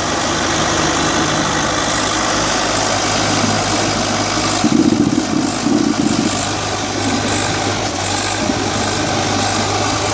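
Tractor engine running steadily, briefly louder about five seconds in.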